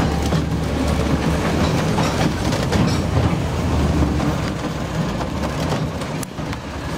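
Narrow-gauge train running slowly into a station and coming to a stand: a low steady diesel engine drone from the Hunslet locomotive with wheels clicking and rattling on the track. The drone fades about four to five seconds in as the train slows.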